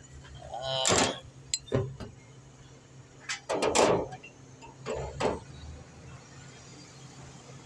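Metal hand tools clinking and knocking against an excavator engine in several short bursts, with a few sharp clicks between them, as a fuel injector is being taken out. A faint steady low hum lies underneath.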